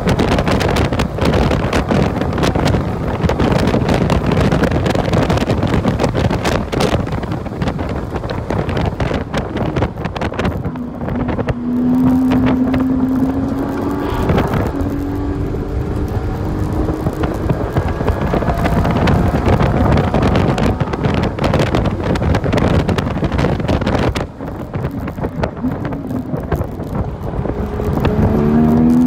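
Porsche 981 Cayman S flat-six heard from inside the cabin on a track lap. At first mostly rushing wind and road noise at high speed. Then the engine note climbs steadily under acceleration, eases off about five seconds before the end, and climbs again.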